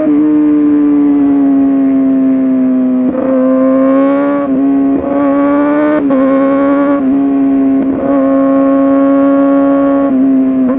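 Kawasaki ZX-6R 636 inline-four with an SC-Project exhaust, running hard at high revs on the throttle. The pitch sags slowly, then dips and recovers several times in quick succession as the rider works the throttle and gears.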